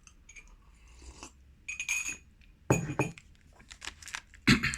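Small hard objects being handled on a table: a short ringing clink about two seconds in, then a sharp knock just under three seconds in and another near the end, with faint handling rustles between.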